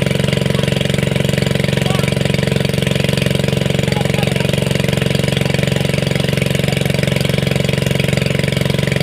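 Small engine running steadily at a constant speed with an even, rapid pulse.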